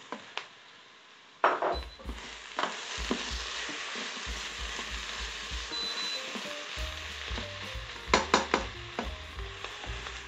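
Beef liver pieces frying in hot oil with onion and carrot in a multicooker bowl on its fry setting: the sizzling starts suddenly about a second and a half in and then runs steadily. Near the end a spoon clicks and scrapes against the bowl as the food is stirred.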